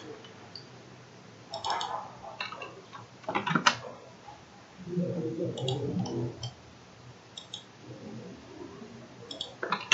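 Scattered clicks of a computer mouse and keyboard, the loudest a quick cluster a little over three seconds in, with a soft low murmur in between.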